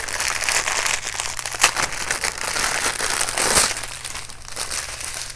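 Small plastic bags of diamond-painting drills crinkling and rustling as they are handled. The rustling is louder for the first few seconds and softer after.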